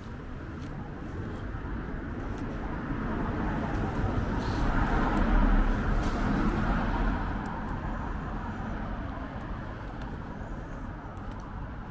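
A road vehicle driving past, growing louder to its nearest point about five seconds in and then fading away.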